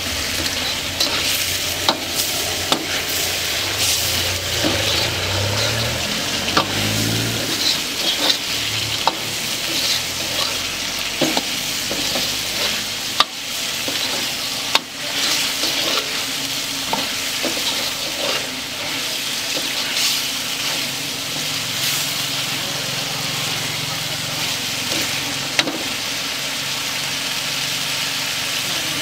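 Chicken masala sizzling in a large black kadai while a long metal ladle stirs it, scraping and clanking against the pan many times at an uneven pace.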